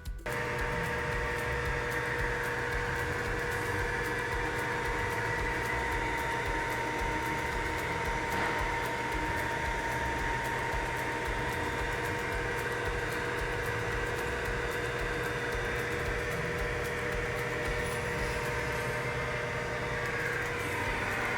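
A motor running steadily: a constant hum with two steady tones over a hiss.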